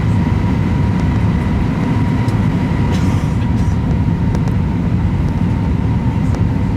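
Airbus A320 cabin noise on approach: a steady low rumble of engines and airflow heard from inside the passenger cabin, with a faint steady whine above it.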